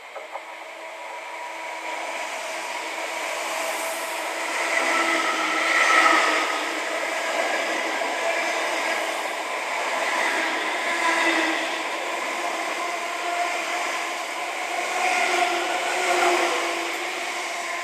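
A Greater Anglia electric multiple unit runs past at close range. There is a steady rumble of wheels on rails with a few held tones in it. The sound builds over the first couple of seconds, then swells louder every few seconds as the coaches go by.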